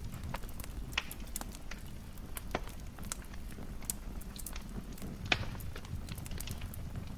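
Wood fire in a fireplace crackling, with irregular sharp pops over a soft low rumble of the flames; the loudest pop comes a little after five seconds in.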